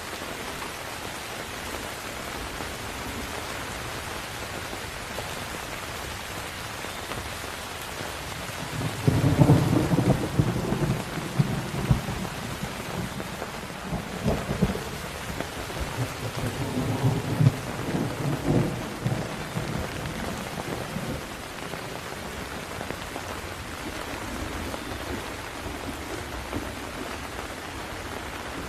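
Steady rain falling, with a long roll of thunder starting about a third of the way in. The thunder is loudest at first, rumbles on in several low swells, then dies away, leaving the rain alone.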